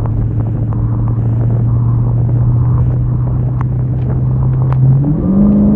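Supercharged 6.2-litre HEMI V8 of a Dodge Hellcat Redeye running with a steady drone whose pitch creeps up slowly, then rises quickly in steps about five seconds in as the revs climb.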